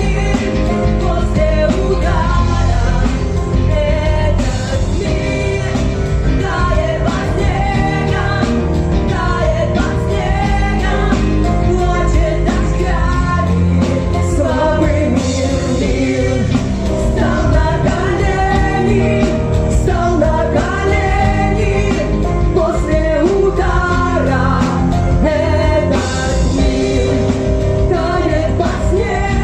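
Live pop-rock band music, with a singing voice over steady bass and drums.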